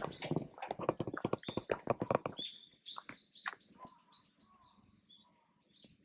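Birds calling: a dense flurry of sharp, loud calls for the first two seconds or so, then a run of quick high chirps, each falling in pitch, fading out toward the end.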